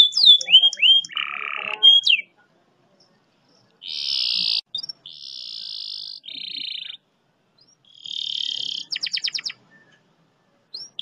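Domestic canary singing long, fast rolls: first a few quick downward-sweeping whistled notes, then phrases of buzzing trills separated by short pauses, and near the end a rapid run of repeated clicking notes.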